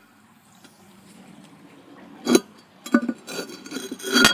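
Ceramic toilet tank lid being set back onto the tank: hard porcelain clinks and knocks, one sharp knock about halfway, then several more, the loudest near the end as it seats.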